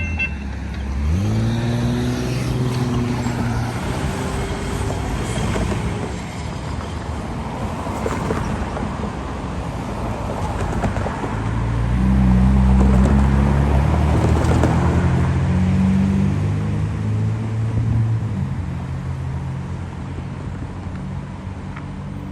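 Road traffic: motor vehicle engines and tyres. One engine pulls away with rising pitch about a second in, and a heavier engine runs louder about halfway through.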